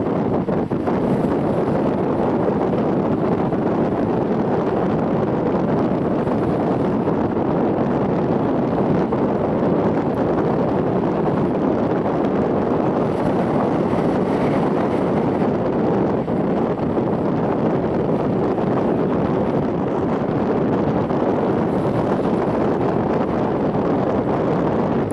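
Steady running noise of a Vivalto double-deck commuter train at speed, heard from inside its upper deck: an even rumble and rush with no beat or breaks.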